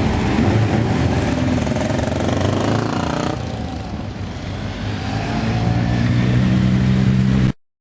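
Motorcycles riding past one after another, engines running. One engine fades away about three seconds in, and another grows louder with a steady low note near the end before the sound cuts off suddenly.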